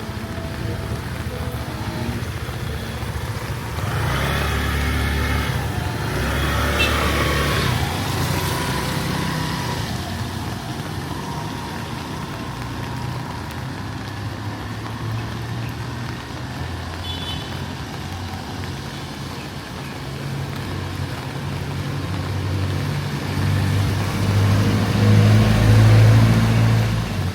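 Street traffic: motor vehicle engines rumbling past, growing louder a few seconds in and again near the end, over a steady street hiss.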